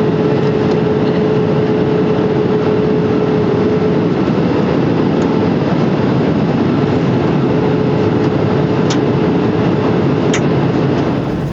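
Steady loud rush of airliner cabin noise, with a steady hum through the first few seconds and two brief clicks near the end.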